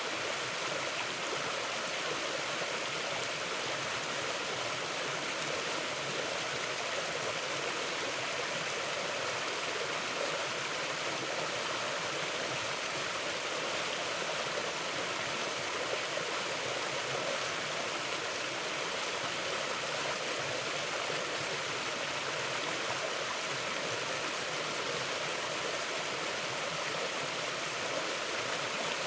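Mountain river flowing steadily: an even, unbroken rush of moving water.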